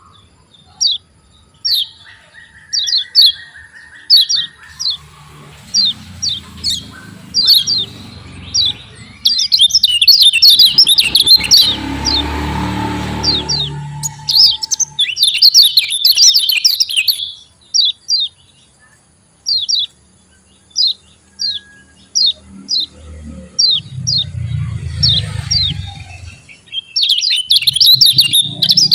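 Kecial kuning (Lombok white-eye) calling: short, sharp, falling chirps, some spaced singly and some in quick runs of chattering "ciak ciak" notes, three times. A low hum rises and falls in the background.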